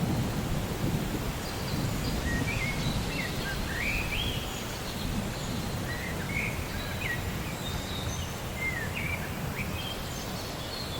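Rainforest ambience: a steady low rumble of rain and distant thunder, with a bird chirping over it in short notes that glide up and down, starting about two seconds in.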